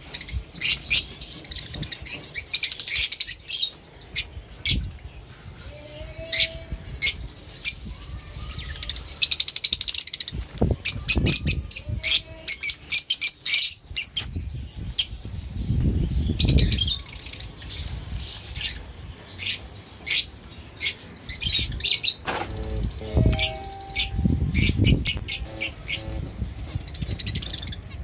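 Fischer's lovebirds and finches chirping: a busy stream of short, sharp, high calls, with a few low rustling thuds at times.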